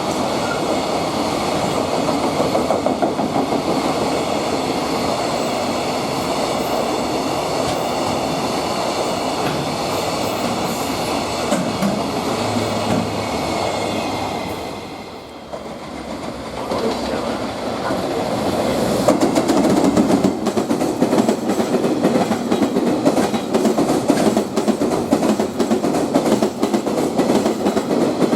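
Freight trains passing, their wagons clattering over the rail joints. About 15 seconds in the sound drops out briefly, and a second freight train passes, louder.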